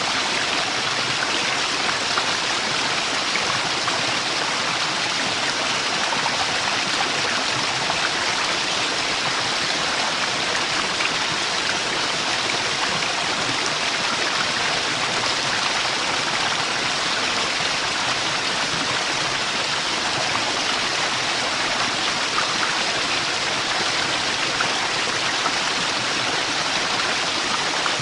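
Waterfall rushing, a steady, even noise of falling water that does not change.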